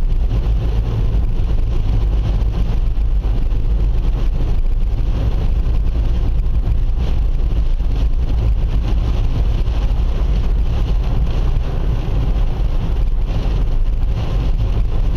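Steady road noise of a car driving in the rain: a low rumble with an even hiss of tyres on the wet road.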